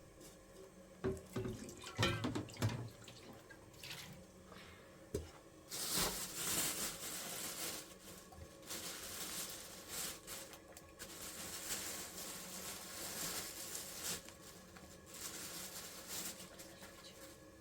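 Water running from a tap into a sink with splashing, as if something is being washed under it, after a few knocks and clatters near the start.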